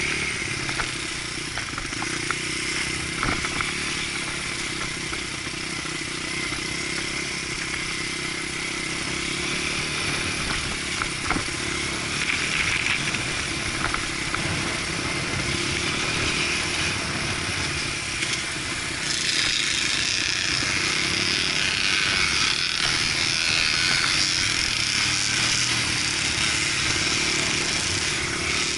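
Dirt bike engine running under way on a trail ride, with a few sharp knocks. It gets louder about two-thirds of the way through.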